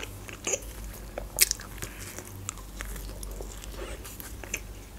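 Close-miked chewing of pizza and a bite into a slice, with small crunching clicks from the crust, the loudest about one and a half seconds in.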